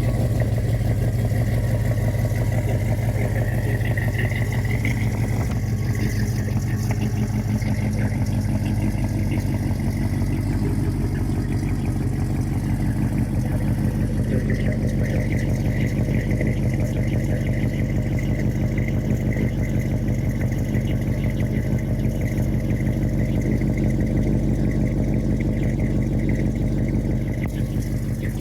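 Rebuilt Chevy 396 big-block V8 idling steadily through a 2.5-inch exhaust with Flowmaster mufflers.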